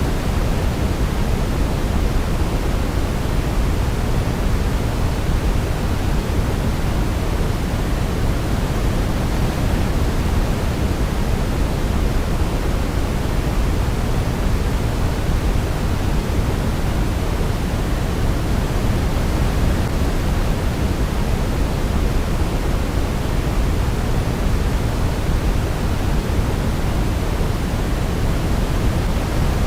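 Steady, unchanging sleep noise of the pink-noise kind, an even hiss weighted toward the low end, with no melody or other sound over it.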